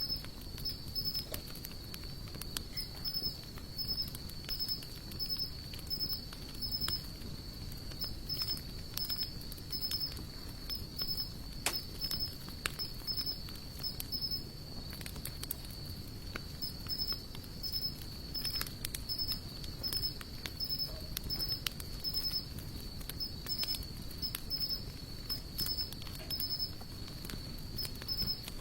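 Wood fire of sawtooth oak and mixed hardwood logs crackling, with frequent irregular small pops over a low rumble. A steady high-pitched insect trill with regular pulsing chirps runs behind it.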